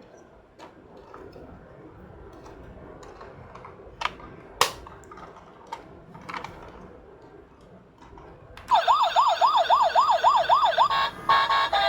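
Light clicks and taps of small plastic toys being handled, then, near the end, a toy emergency vehicle's electronic siren wailing rapidly up and down, about three to four sweeps a second, for about two seconds before giving way to an electronic toy tune.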